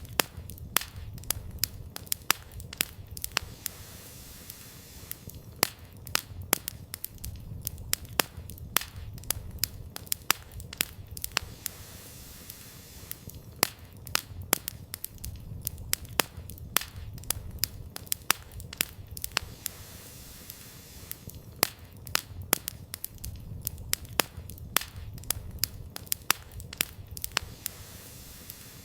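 Wood campfire crackling: frequent irregular sharp snaps and pops over a steady low rumble of the burning fire.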